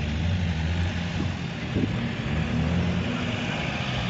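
A car engine running at low revs, a steady low drone, as cars pull out of the meet.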